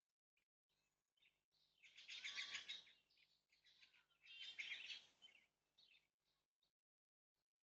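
Two harsh, raspy bird calls, each about a second long and about two seconds apart, with a few faint short chips and ticks around them.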